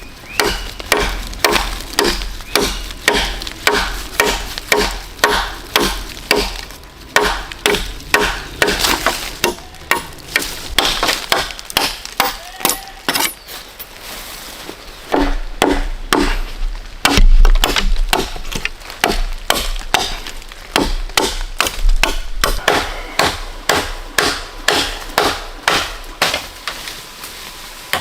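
A long run of sharp blows on wood, about two a second with short pauses, typical of chopping or hammering wood.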